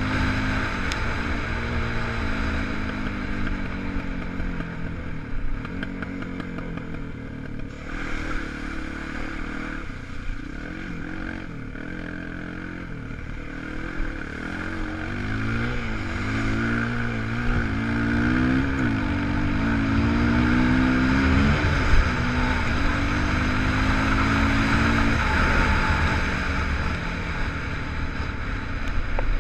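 250 cc single-cylinder four-stroke enduro motorcycle engine running under load, its pitch rising and falling again and again as the throttle is opened and closed.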